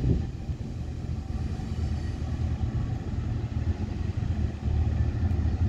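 Diesel locomotive of an approaching train, heard as a steady low rumble from down the track.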